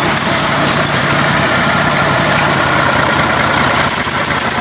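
Engine of a lifted, modified riding-mower tractor running steadily.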